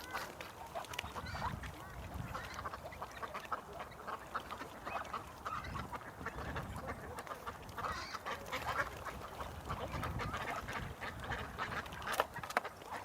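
A flock of ducks quacking and chattering continuously, many short calls overlapping, over a low rumble. A single sharp click near the end.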